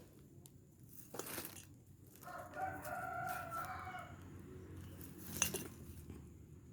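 A rooster crowing once, a single call of about two seconds in the middle, with a couple of sharp clicks before and after it.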